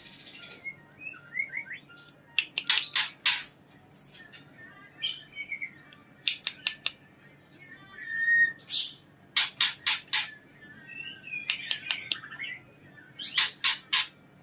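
Female white-rumped shama calling: quick runs of three to five harsh calls, repeated every few seconds, with short gliding whistled notes in between.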